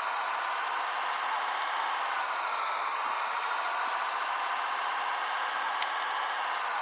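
Scania 112HT truck engine running steadily, with a high whine that wavers slowly in pitch.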